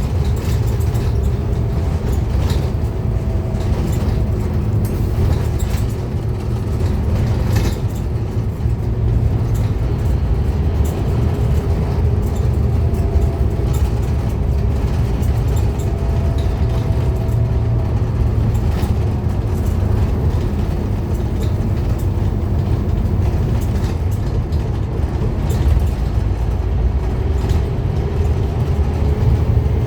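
A Scania N230UD Omnicity double-decker bus running under way: a steady low rumble from its five-cylinder diesel engine and drivetrain, with faint whines that slowly rise and fall.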